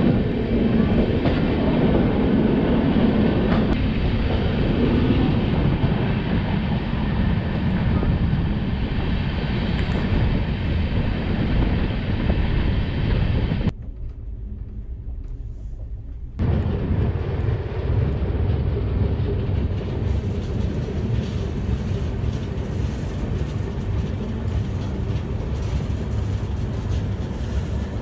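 Passenger train running at speed, heard at an open coach door: a loud, steady rush of wheel-on-rail noise and wind. A little before halfway it drops for a couple of seconds to the quieter hum inside the coach, then the loud running noise returns.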